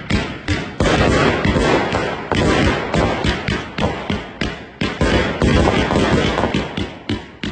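Night Owl "Magic Man" consumer firework cake firing. A rapid string of launch thumps and bangs, several a second, runs over a steady noisy haze, with a brief dip near the end.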